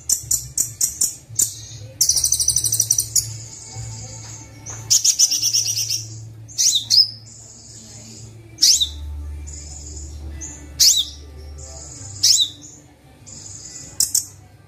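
Kolibri Wulung sunbird singing a busy, varied song of rapid high chirps, fast trills and sharp downward-sweeping whistles, repeated every second or two.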